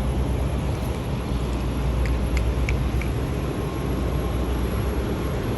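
Tractor-trailer's diesel engine running with a steady low rumble, with a few faint ticks about two seconds in.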